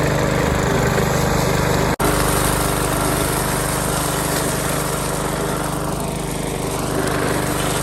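A small engine running steadily, with a very brief break about two seconds in.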